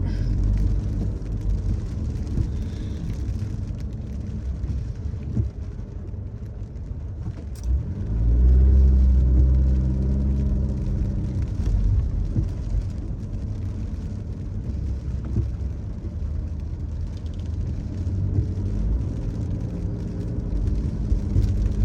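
Car driving, heard from inside the cabin: a steady low road and engine rumble. About eight seconds in the engine note rises and swells for a few seconds as the car accelerates, then settles back to a steady cruise.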